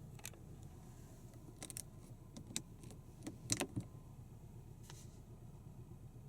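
A handful of sharp clicks and brief light rattles, loudest in a quick cluster about three and a half seconds in, over a low steady hum.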